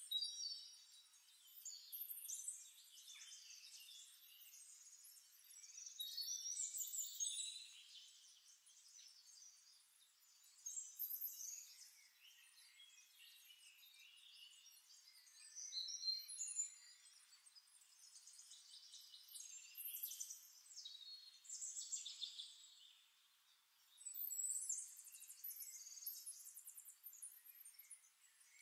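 Faint birds chirping and trilling in clusters every few seconds, high-pitched only.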